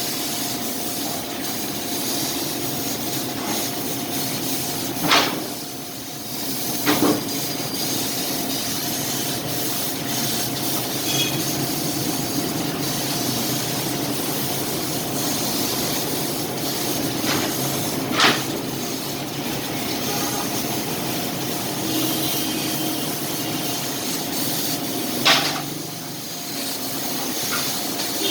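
Fiber laser cutting machine at work on iron sheet: a steady hiss and hum with a faint steady tone, broken by a few short, sharp cracks.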